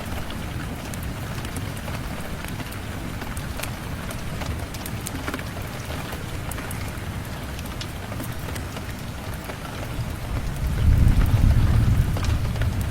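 Steady rain falling, with scattered drips. A low roll of thunder swells about ten seconds in and lasts a couple of seconds.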